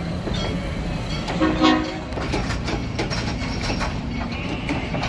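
A passenger train rolling in, with a steady low locomotive rumble. A short horn blast sounds about a second and a half in, followed by a run of clicks from the wheels.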